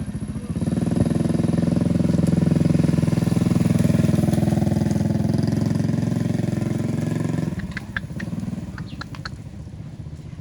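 An engine running steadily, louder from about half a second in until about seven and a half seconds, then dropping back, with a few sharp clicks near the end.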